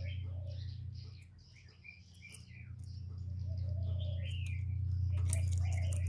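A steady low hum with short high chirps and tweets of small birds over it. Near the end a caged spotted dove flaps its wings, with a few sharp clicks against the wire cage.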